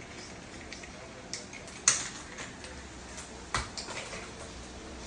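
A few scattered hard clacks of small objects being knocked and tossed about, as a cockatoo plays with its toys; the two loudest come about two and three and a half seconds in.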